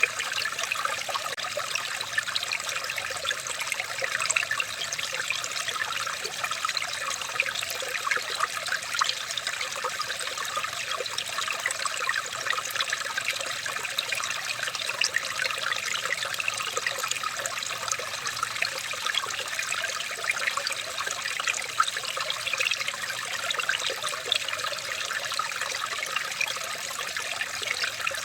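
Running water trickling steadily, a continuous even babble of small splashes.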